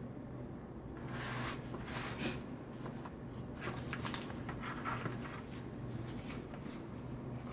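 Rustling and small clicks of paper and ribbon being handled, in scattered short bursts over a steady low hum.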